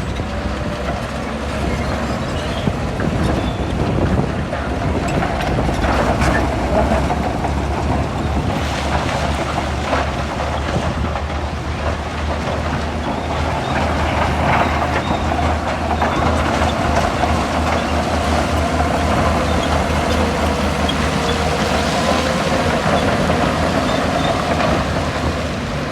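Bulldozer diesel engine running steadily under load, with a few metallic clanks.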